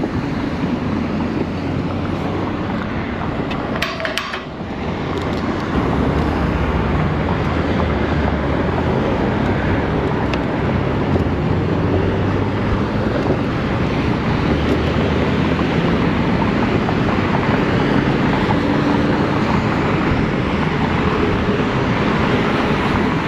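Wind rushing over the camera microphone, with road and tyre noise, while riding an ONYX RCR 80v electric moped. It dips briefly with a few light clicks about four seconds in, then runs louder and steadier.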